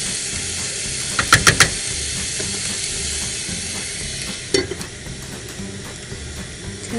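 Vegetables sizzling in a frying pan, with a quick run of four clicks about a second in. A clack about four and a half seconds in comes as a lid goes onto the pan, and after it the sizzling is quieter.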